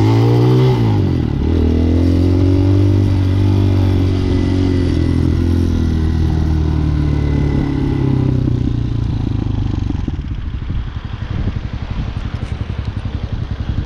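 Hawk 250's 229cc single-cylinder four-stroke engine under way: its pitch drops about a second in, holds steady, then falls over several seconds as the bike slows, settling into a low, uneven putter near the end.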